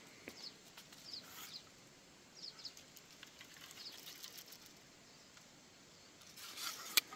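Quiet outdoor ambience with faint, short bird chirps scattered throughout, a few small handling clicks, and one sharper click near the end.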